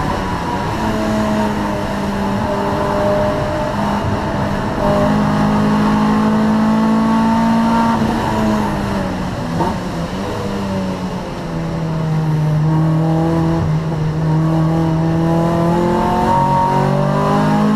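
Honda Prelude 2.2's four-cylinder VTEC engine racing under load. The revs hold high, fall away around the middle of the stretch, then climb again, with a brief dip near the end like a gear change.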